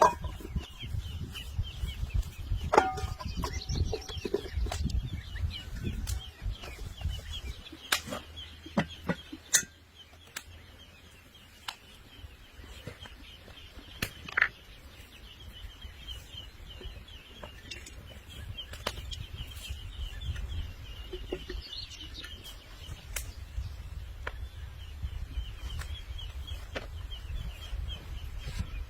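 Birds calling, a steady fast high chatter with scattered sharp clicks, over a low rumble that drops away for a few seconds midway.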